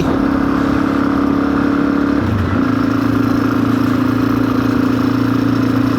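Suzuki DR-Z400's single-cylinder four-stroke engine running at a steady speed under way, with a brief dip in engine speed about two seconds in before it settles again.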